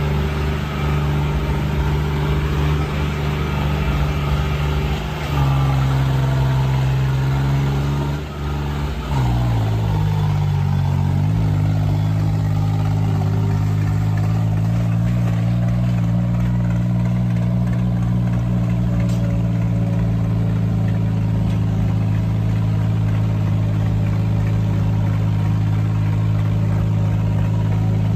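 Tractor diesel engine running steadily; its speed drops in a step about five seconds in and again around ten seconds in, then holds even.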